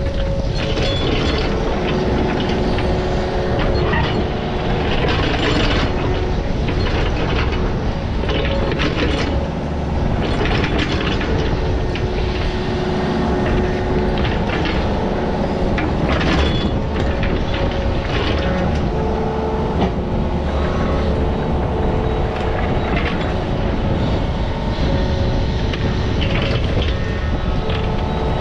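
Diesel earthmoving machine running steadily, with clanking and rattling from its tracks or bucket throughout.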